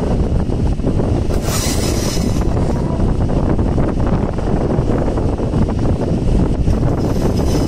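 Passenger train running, heard from an open coach doorway: a steady low rumble of wheels and coach, with wind on the microphone and a short hiss about a second and a half in.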